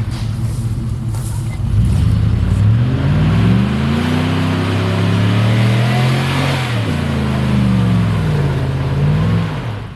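Engine of an off-road vehicle stuck in mud, revving hard: the revs climb about two and a half seconds in, hold high with a rushing noise, drop after about seven seconds, then rise briefly once more and fall off near the end.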